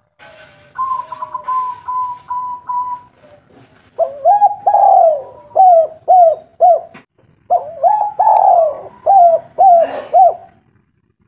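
Spotted dove cooing. A softer, even note comes first, then from about four seconds in a run of loud, repeated coo notes in quick phrases.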